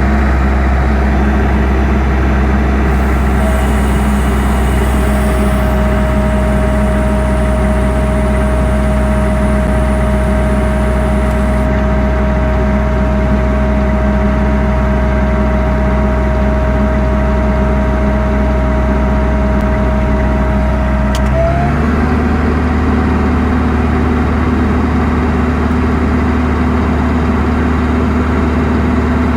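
Heavy recovery equipment's engine running steadily while winching, with a thin steady whine over it for much of the time. About 21 seconds in the whine ends and the engine note steps up to a higher speed.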